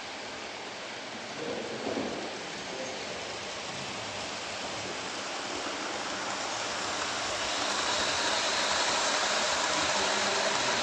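Model train running along the layout track: a steady rushing noise that grows louder from about halfway through, as if the train is approaching.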